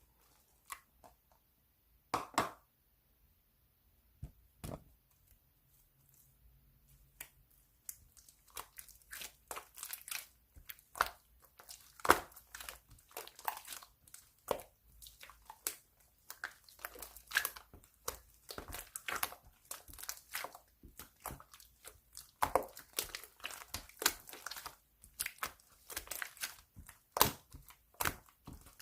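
Crinkling, crackling and tearing of thin material being handled: a few isolated crackles at first, then near-continuous rustling and crackling from about eight seconds in.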